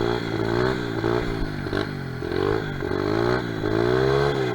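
Honda XR70R pit bike's small four-stroke single-cylinder engine revving, its pitch rising and falling back about four times as the throttle is worked.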